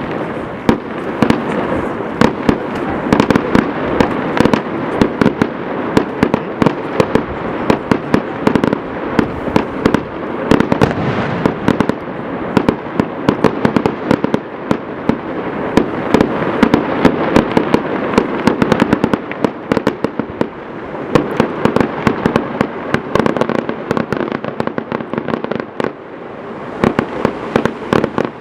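Many fireworks going off at once: a continuous barrage of overlapping sharp bangs and crackles, with no let-up.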